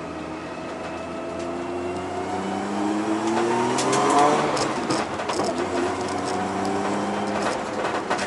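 Nissan Skyline R32 GTS-T's straight-six engine heard from inside the cabin, rising in pitch as the car accelerates to about four seconds in, then dropping at an upshift and running on at a steadier, lower pitch. Scattered clicks and rattles from the car come in after the shift.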